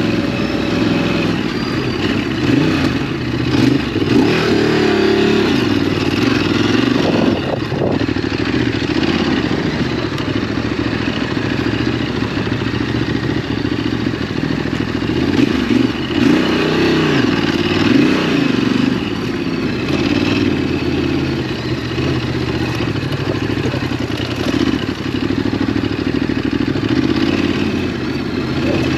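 Ducati DesertX's 937 cc L-twin engine running under way, the revs rising and falling several times as the bike is ridden on dirt.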